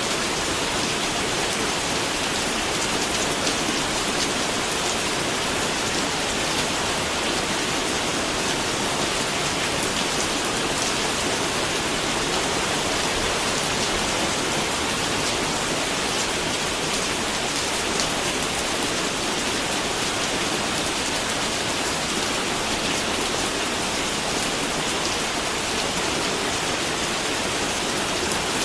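Steady rain falling and pattering on a surface, with individual drops ticking through the hiss.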